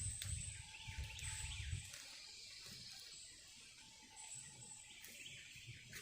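Woodland ambience with birds calling and a high, thin insect-like buzz that comes and goes. A low rumble fades out about two seconds in.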